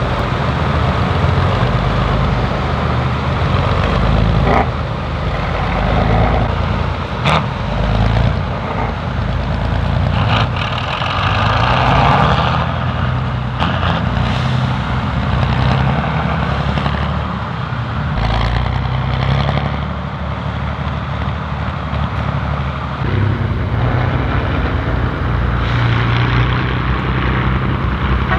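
Heavy off-road truck's diesel engine running under load as it crawls through rough terrain, its low note shifting as the throttle changes, with a couple of sharp knocks in the first third.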